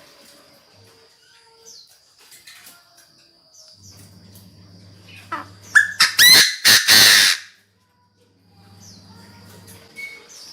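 Chinese francolin (đa đa) decoy bird calling: one loud burst of several harsh, ringing notes about six seconds in, over faint chirps and a steady high background tone.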